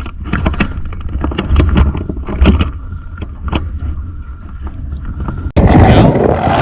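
Low rumble with irregular knocks and thumps, then about five and a half seconds in a sudden cut to a loud engine running.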